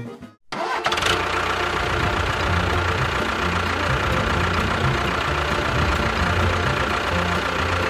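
An engine idling steadily with an uneven low knocking throb, starting just after a brief moment of silence at the start.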